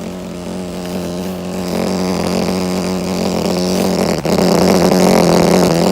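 Loose tape on a gas furnace's taped-up collar buzzing in the air stream: a steady, even-pitched buzz that grows louder and cuts off suddenly at the end, with a brief click about two-thirds of the way through. The tape is sealing a joint that has no screws, so it flutters and makes the noise.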